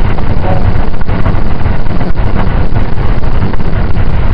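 Steady running noise inside the passenger car of a JR 681 series limited express train under way: a dense, even rumble of wheels on rail and air, strongest in the low range.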